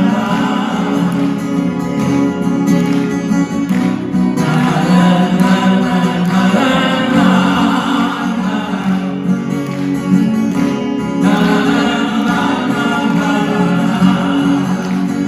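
Acoustic guitars strummed together under men's singing voices carrying the melody, in a passage without recognisable lyrics.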